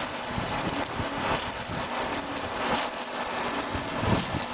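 Log-turning and milling machine for log-house posts running with a steady mechanical noise that swells about every one and a half seconds.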